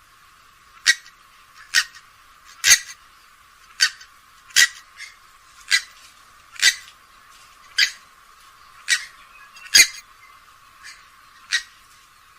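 Grey-headed swamphen giving a series of short, sharp calls, roughly one a second, about a dozen in all and uneven in loudness.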